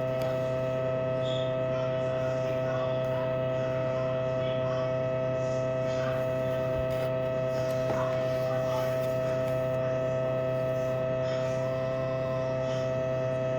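Steady electrical hum, an even drone made of several fixed tones that does not change.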